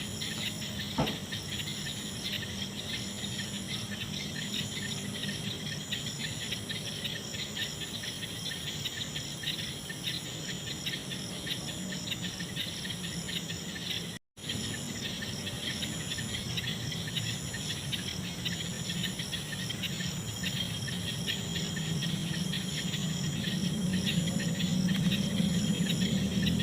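A night chorus of crickets and other insects: a steady high trilling with fainter high chirps repeating about once a second. A low droning grows louder near the end, and there is a short dropout about halfway through.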